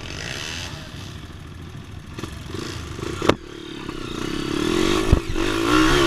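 Dirt bike engine revving on a trail ride, growing louder and rising in pitch through the second half. A sharp knock comes about three seconds in and another a couple of seconds later.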